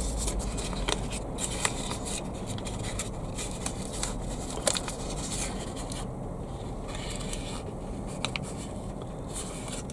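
Light scraping and scratching with scattered small clicks, from hands at work sowing seeds, over a low steady rumble.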